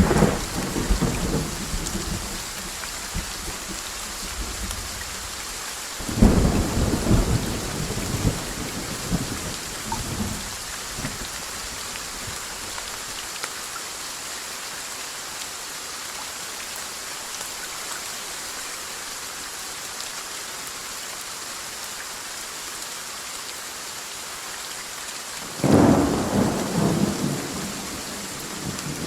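Steady rain hissing, broken by thunder: a clap about six seconds in rolls on for several seconds, and another breaks near the end, with the rumbling tail of an earlier one fading at the start.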